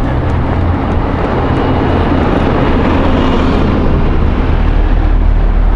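Road traffic: a motor vehicle running close by, a steady low rumble with tyre and road noise that grows heavier near the end.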